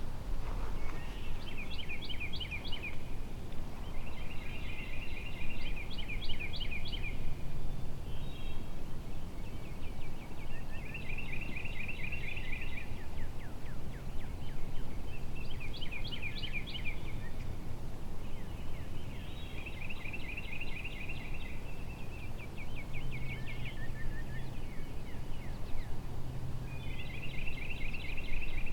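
A small songbird singing a fast, high trill, repeated about every three to four seconds, over steady low wind noise.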